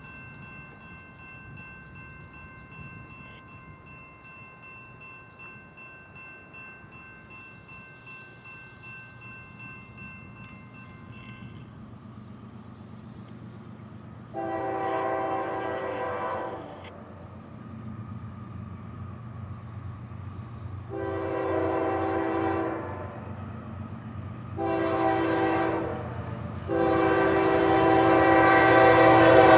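Freight locomotive air horn on a CSX GE ES44AH, blowing the grade-crossing signal as the train approaches: two long blasts, a short one, and a final long one, starting about halfway through. Beneath it the train's low rumble grows steadily louder.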